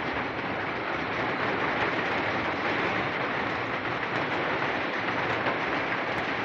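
Heavy rain falling hard, a steady dense hiss without a break.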